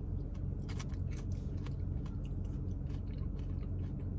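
Close-up chewing of a bite of peach mango pie with a crispy shell: many small, irregular crunches and mouth clicks over a steady low hum.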